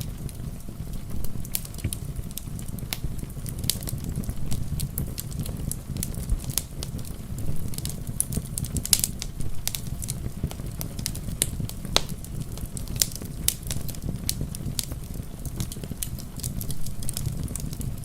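Wood fire crackling in a fireplace: many irregular sharp snaps and pops over a steady low rumble, with a soft wash of rain beneath.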